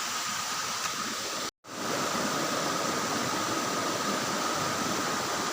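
Steady rushing of a small waterfall and river, with a thin steady high tone over it. The sound cuts out completely for a moment about a second and a half in.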